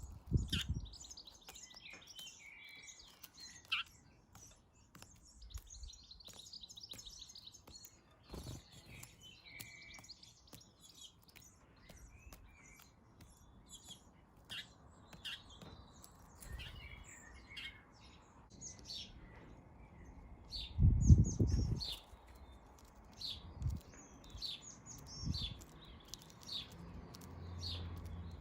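Garden birds chirping and twittering in quick, repeated short calls. About two-thirds of the way through there is one louder low rumble lasting about a second.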